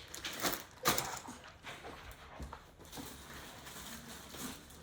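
Unboxing handling noises: a few short knocks and rustles of packaging and parts being moved, the loudest about a second in, then softer handling.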